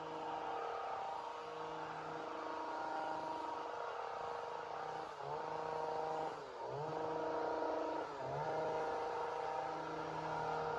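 Chainsaw running at high speed, its pitch dropping and climbing back three times, each about a second and a half apart, midway through.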